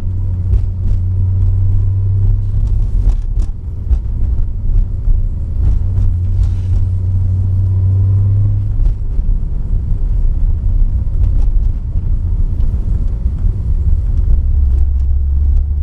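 Single-turbo Toyota Supra's 2JZ-GTE engine running at low speed, a steady low drone with road rumble; the drone drops about nine seconds in and settles lower near the end.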